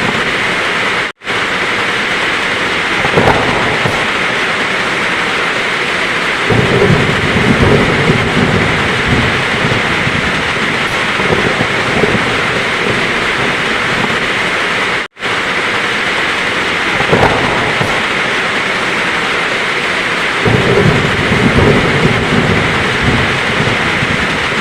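Heavy rain falling steadily with a loud, even hiss, while thunder rolls in low rumbles several times. Twice the sound cuts out for an instant, about a second in and again around the middle, where the recording loops.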